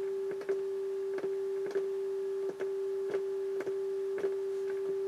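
A steady test tone played through a JVC JA-S71 amplifier, broken by crackles and clicks about every half second and a couple of brief dropouts as its switches are worked: dirty switch contacts, which start to clean up as they are exercised.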